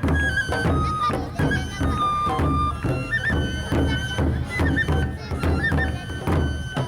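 Japanese taiko drum ensemble playing: low drum strokes in a steady beat under a high melody of long held notes.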